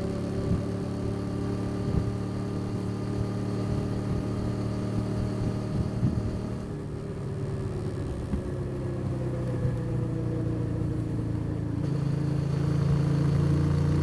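Custom motorcycle engine running on the road, its note easing off around the middle and then growing louder about twelve seconds in as it picks up again.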